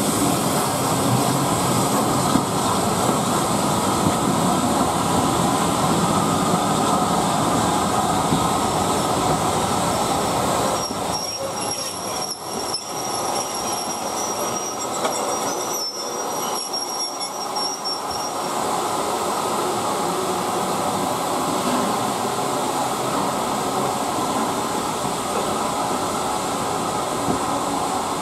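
Passenger coaches hauled by LNER K1 2-6-0 steam locomotive No. 62005 rolling past, their wheels running steadily over the rails. A high, thin wheel squeal comes in about eleven seconds in and lasts some seven seconds.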